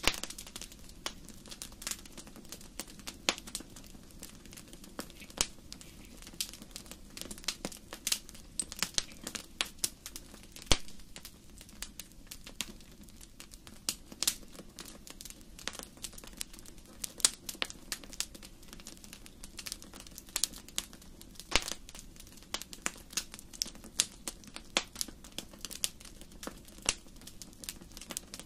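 Wood fire burning in a fireplace: steady crackling with irregular sharp pops and snaps over a low rushing of the flames.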